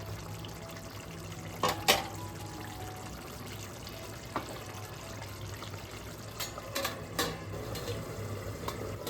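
Chicken in its gravy bubbling and simmering in the pan as it cooks down, over a steady low hum, with a few short clicks about two seconds in and again near the end.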